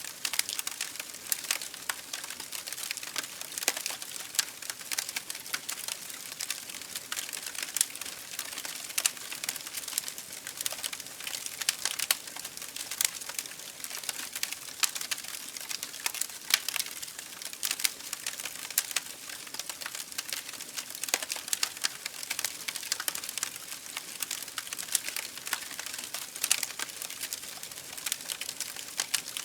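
Campfire burning: wood crackling and popping in a dense, irregular stream of sharp snaps over a soft hiss.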